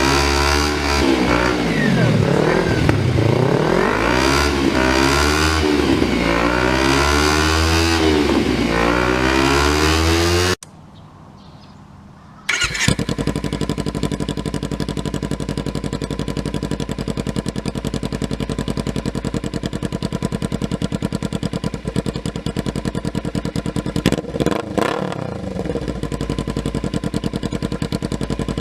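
Kawasaki Ninja 300's parallel-twin engine through an aftermarket exhaust, blipped again and again, the pitch climbing and dropping with each rev. About ten seconds in it cuts off, and after a short quiet a motorcycle engine idles steadily through an aftermarket exhaust.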